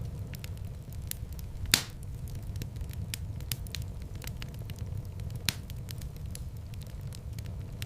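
Fireplace fire burning with a steady low rumble and frequent small crackles, with two louder pops, a little under 2 seconds in and again at about 5.5 seconds.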